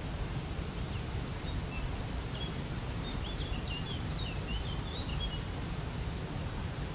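Steady rushing of a waterfall, with a small bird's quick high chirps over it for a few seconds from about a second in.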